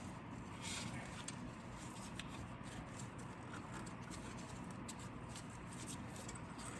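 Faint scratching and a few light clicks from a wire being twisted around a bolt to hang a removed brake caliper.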